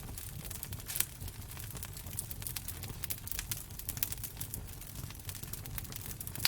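Wood fire crackling in a fireplace: scattered sharp pops and snaps over a low, steady rumble, with one louder pop about a second in.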